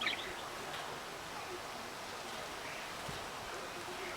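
Caged canary giving a brief high chirp right at the start, then a steady faint hiss with only a couple of soft chirps.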